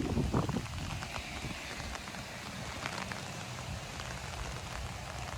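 Steady tropical-storm rain falling, with many individual drops ticking close by, and a brief low rumble near the start.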